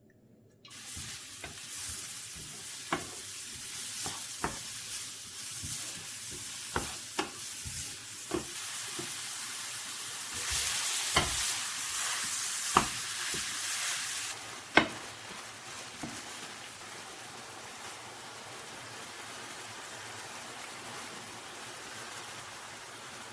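Food sizzling in hot oil in a pan, with a utensil clicking against the pan now and then as it is stirred. The sizzle starts abruptly about a second in, grows louder for a few seconds in the middle, then settles to a steady hiss.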